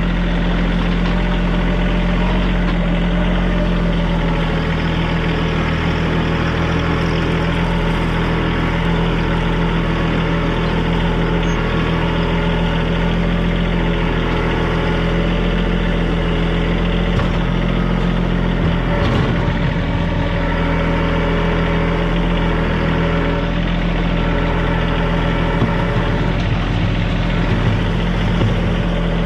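TYM compact tractor's diesel engine running steadily, its pitch wavering briefly about two-thirds of the way in and again near the end.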